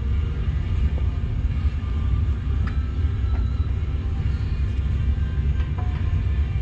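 Steady low rumble with a few light clicks, typical of metal brake pads and shims being handled and seated in a caliper bracket.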